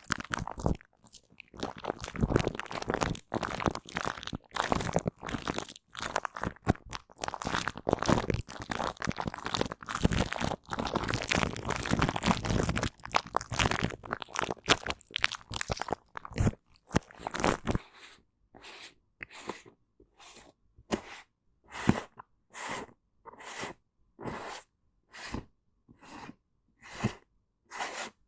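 Aloe vera gel being wiped and rubbed close to the microphone. The rubbing is dense and continuous for the first two-thirds, then breaks into separate short strokes, roughly two a second.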